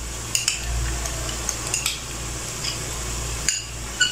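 Minced meat frying in a non-stick pot with a steady sizzle over a low hum, broken by several short, ringing clinks and knocks of utensils against the bowl and pot as yogurt is added.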